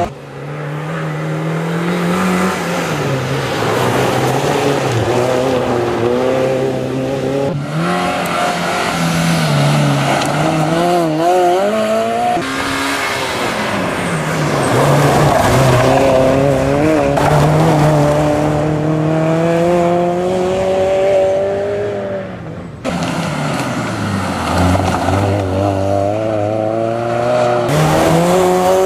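Honda Civic EG hatchback's four-cylinder engine driven hard, its pitch climbing steeply and dropping again and again as it accelerates and brakes through tight chicanes. The sound breaks off abruptly twice where one pass cuts to another.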